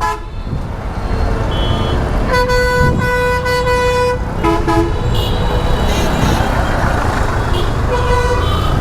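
Vehicle horn held for about two seconds, followed by two short honks, over steady wind and road rumble from a moving motorcycle.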